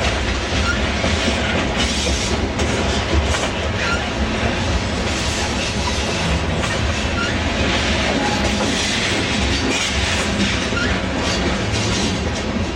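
Freight train of covered hopper cars rolling past: a steady rumble of steel wheels on rail, with repeated clicks throughout.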